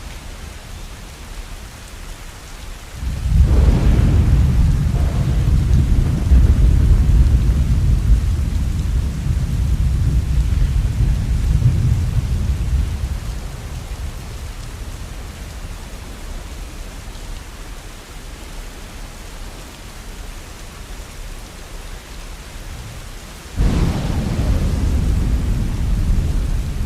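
Steady rain with two rolls of thunder: the first breaks about three seconds in and rumbles for around ten seconds before fading, the second breaks suddenly near the end.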